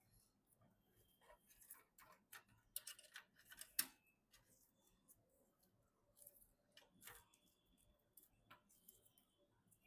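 Hardware being handled during a PC build: scattered small clicks and taps of plastic and metal parts, the sharpest about four seconds in.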